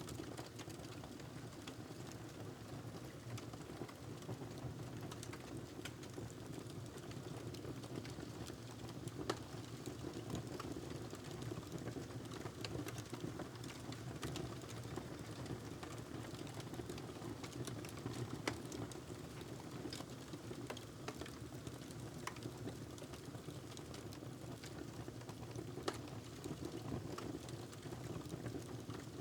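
Wood fire crackling, with irregular small pops and a couple of sharper snaps over a steady low background noise.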